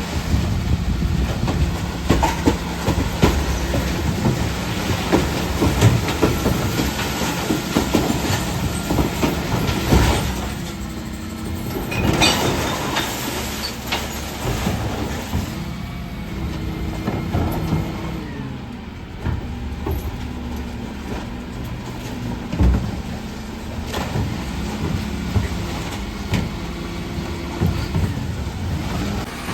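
Dennis Eagle Elite 6 refuse truck working a recycling collection: the diesel engine runs steadily while the bin lifter's hydraulics whine up, hold and drop back three times, amid repeated knocks and clattering as bins of cans, plastics and glass are tipped into the body.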